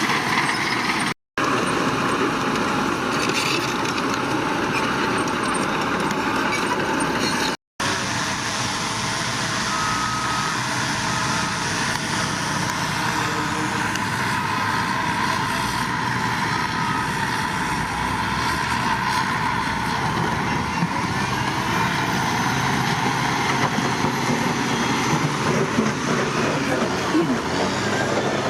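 Diesel engines of heavy road-building machinery running steadily. The sound drops out completely twice, briefly, about one second and about eight seconds in.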